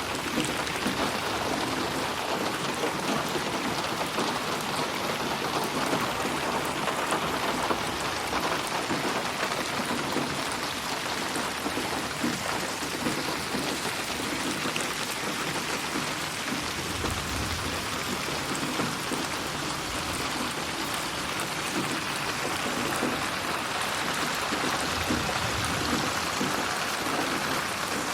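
Steady rain falling, an even wash of patter with faint low rumbles about halfway through and again near the end.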